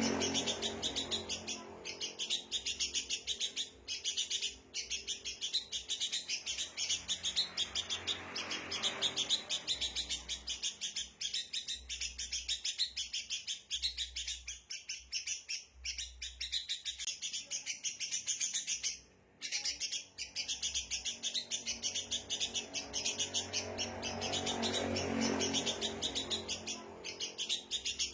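Sooty-headed bulbuls (kutilang) chattering in an agitated, rowdy chorus: a dense, unbroken stream of rapid chirps, with one short break about 19 seconds in. This excited calling is the kind used as a lure call to draw wild birds in.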